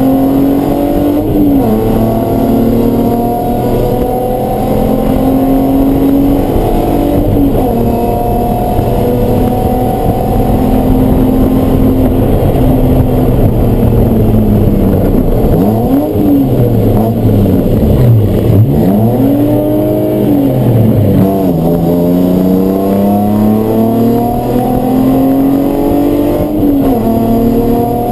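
Race car engine running at speed on a circuit, its pitch climbing through the gears and dropping back repeatedly. A run of sharp dips and quick recoveries in pitch comes a little past halfway, as it slows for and powers out of corners.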